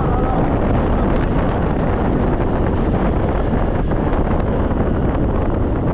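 Steady wind rush on the microphone of a moving scooter, with the scooter's engine and road noise underneath.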